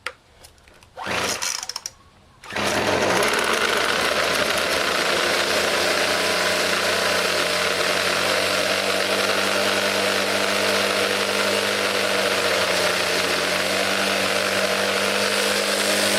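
Craftsman 25cc two-stroke string trimmer engine cold-started on the recoil cord: a pull about a second in, then it catches at about two and a half seconds and runs steadily. It runs rich, which the owner puts down to old fuel.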